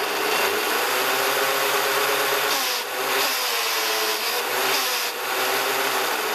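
Traxxas Villain EX RC boat's electric motor and propeller drive spinning at high speed out of the water, a loud whine. It eases off briefly about three and five seconds in, the pitch dropping and climbing back as the throttle is worked.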